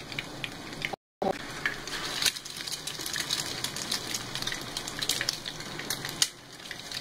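Oil sizzling and crackling steadily as egg-dipped chicken shami kababs shallow-fry in a pan. The sound cuts out completely for a moment about a second in.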